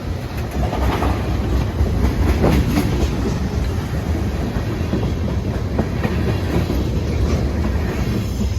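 Train passing close by: a steady low rumble with irregular wheel clicks over the rail joints.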